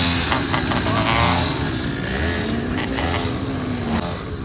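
Motorcycle engines revving up and down, with one engine's pitch rising steadily over a couple of seconds near the middle.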